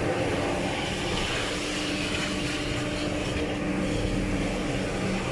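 A motor running steadily: a constant mid-pitched hum over an even hiss, with no change or break.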